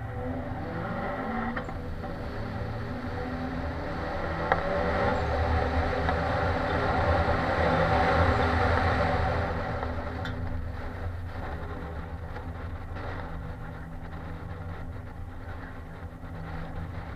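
Subaru Impreza's flat-four engine and exhaust at low speed, picking up gently in the first few seconds, louder around the middle and then easing off. There is a single sharp click about four seconds in.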